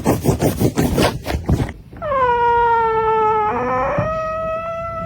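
A pet animal makes a quick run of short, sharp sounds, about six a second, then from about two seconds in a long howl that dips in pitch, rises, and is held.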